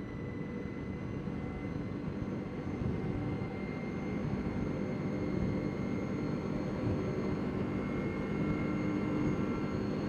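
CFMoto CForce 800 ATV engine running under way, with a thin steady whine over the engine note. It gets slightly louder and a little higher through the stretch as the machine picks up speed.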